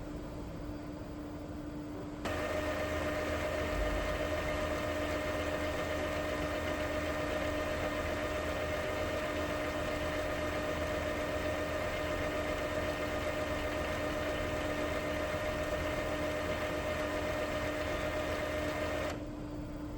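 Epson L3256 ink-tank printer running its power cleaning cycle: a steady motor whine with a fixed pitch starts about two seconds in, runs evenly, and stops abruptly near the end, over a constant low hum.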